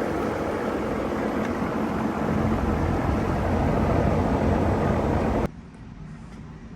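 5-ton Ruud air-conditioning condenser running, compressor and condenser fan, as a steady even noise while it is being charged with refrigerant. About five and a half seconds in, the sound cuts off abruptly to a much quieter steady background.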